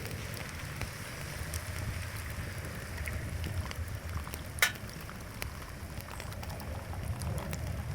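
Wood fire crackling in a fire pit: a steady low hiss with scattered sharp pops and one louder snap about halfway through.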